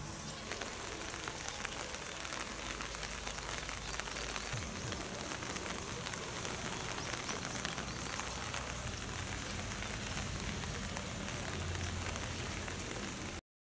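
Steady rain pattering, a constant hiss full of fine drop ticks, which cuts off suddenly near the end.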